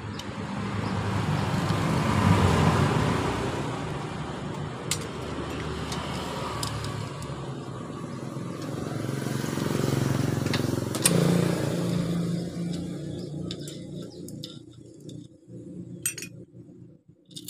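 Road vehicles passing by, the engine noise swelling and fading twice, with a few sharp clicks.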